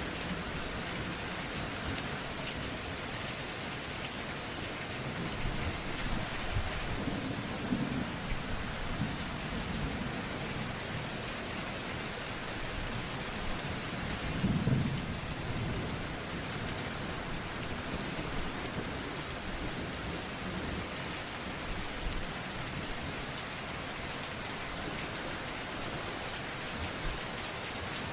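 Steady heavy rain falling, with low thunder rumbling softly a few times, loudest about halfway through.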